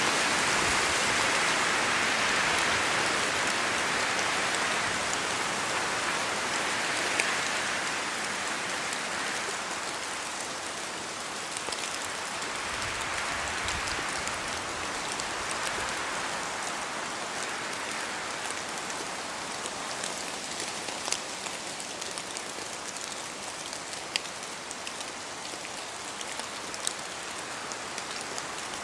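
Steady rain falling through forest trees, a continuous rushing hiss with occasional single drops landing close by as sharp ticks. The rush swells in the first several seconds, then gradually eases.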